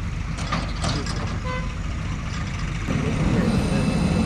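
JCB 3DX backhoe loader's diesel engine running with a low rumble, which grows louder and heavier about three seconds in as the engine takes up load.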